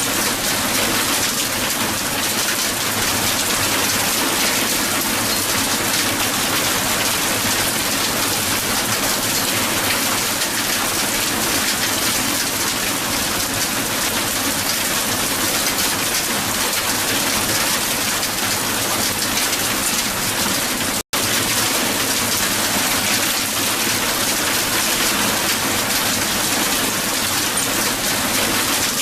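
Heavy hail falling and striking the ground: a dense, steady patter of many small impacts. The sound cuts out for an instant about 21 seconds in, then resumes unchanged.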